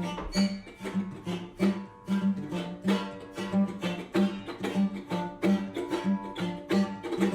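A plucked string instrument strummed in a steady rhythm, about three strokes a second, playing a chord accompaniment to the children's chant.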